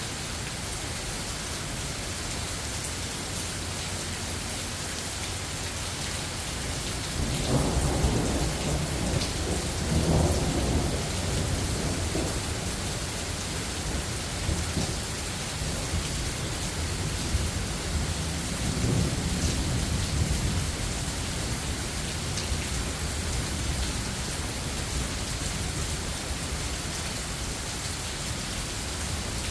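Steady rain hissing, with a long low roll of thunder rumbling about a quarter of the way in and a weaker rumble a little past the middle.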